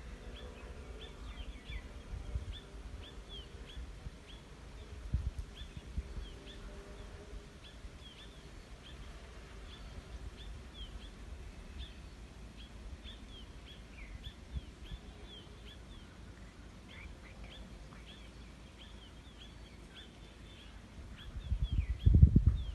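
Small birds calling repeatedly in short high chirps, a few each second, over a low rumble on the microphone. There is a burst of loud low thumps near the end.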